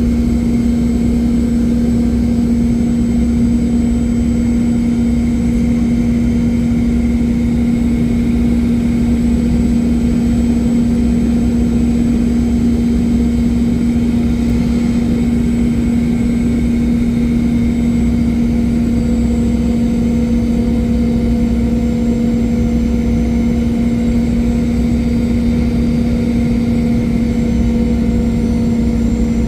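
Steady cabin drone of a Boeing 717-200 airliner in flight, its rear-mounted Rolls-Royce BR715 turbofans giving a constant low hum over a rushing rumble, unchanging throughout.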